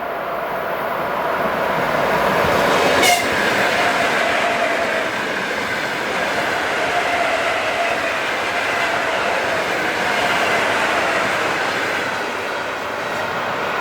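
Electric train passing close at speed: loud wheel and rail running noise with a steady whine in it, and a single sharp crack about three seconds in.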